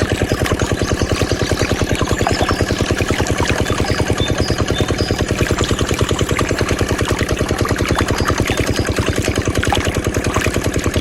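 Small diesel engine driving a water pump, running steadily with an even, rapid chugging beat.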